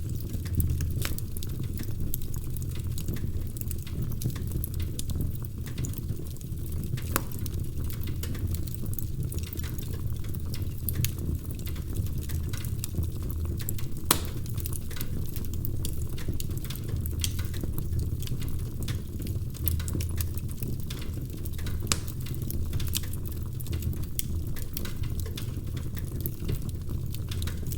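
Fire burning in a fireplace, crackling: irregular sharp snaps and pops over a steady low rumble of the flames, a few louder pops standing out.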